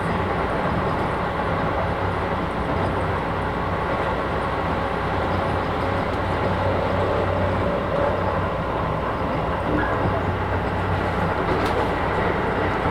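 Keisei 3000 series commuter train heard from inside the car, running at a steady speed: an even rumble of wheels on rail with a steady low hum.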